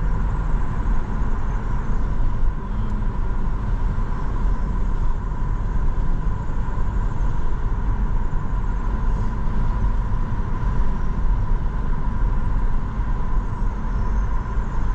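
Steady road noise inside a moving car: a low rumble from the tyres and engine, with a thin steady whine running through it.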